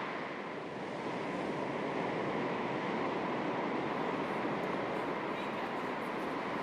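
Calm sea with small waves lapping at the shore, heard as a steady, even wash of water noise.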